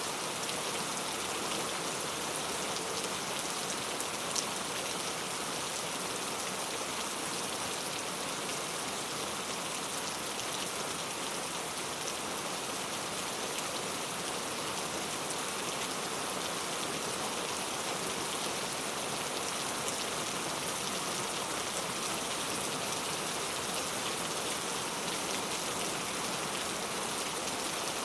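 Heavy rain falling steadily and pattering on hard street surfaces, with close drop ticks and one slightly louder drop hit about four seconds in.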